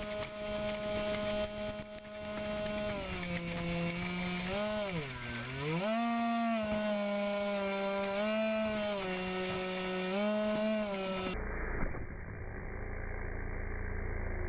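RC airboat's motor and air propeller running, its pitch dipping sharply and climbing back a few times as the throttle is eased off and opened up. Near the end the sound turns duller and noisier.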